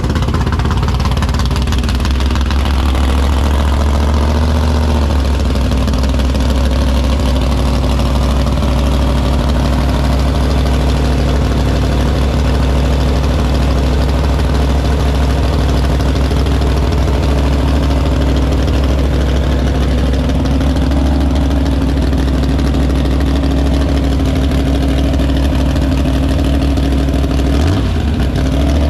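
A car engine idling steadily and loudly, with a short blip of the throttle near the end.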